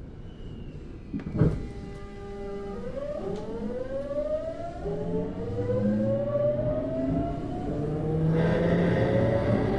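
Hitachi GTO-VVVF traction inverter and motors of a Tokyu 9000 series train pulling away from a stop, heard on board a motor car. A thump about a second and a half in is followed by a brief chord of steady tones. Then a siren-like whine of several tones climbs steadily in pitch as the train accelerates, with running noise growing louder.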